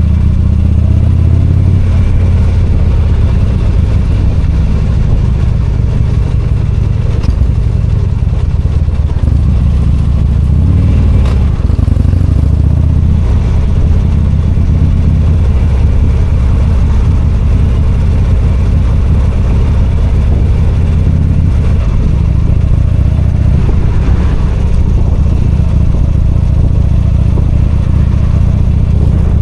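V-twin motorcycle engine running steadily while riding, its note rising and falling briefly a couple of times as the throttle changes.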